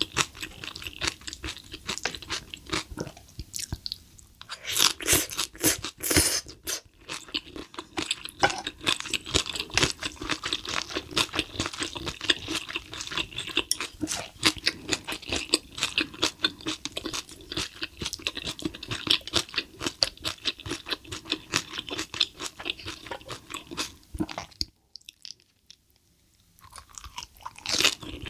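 Close-miked chewing and crunching of a mouthful of spicy stir-fried cuttlefish with noodles: dense wet crunching and mouth sounds, louder for a couple of seconds about five seconds in, with a short pause near the end.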